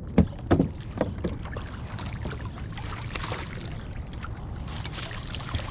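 Splashing water and knocks against a fishing kayak as a hooked bass is brought in and netted, with several sharp knocks in the first second or so and splashy hiss in the middle and near the end.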